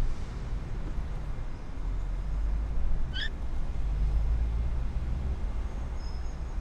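Low, steady rumble of a car idling, with one short bird chirp about three seconds in.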